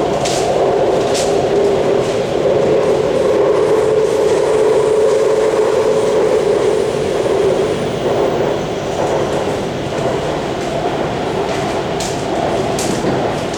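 Kaohsiung MRT Red Line metro train running on elevated track, heard inside the car: a steady rumble with a hum from the drive. A few sharp clicks from the wheels come near the start and near the end, and the noise eases a little in the second half.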